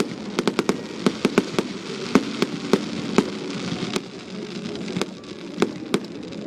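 Fireworks display: quick, irregular bangs and cracks over a steady crackling hiss, thinning out after about four seconds.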